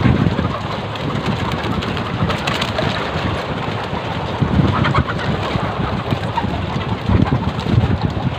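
A flock of laying hens clucking and calling together, many overlapping voices over a steady background noise.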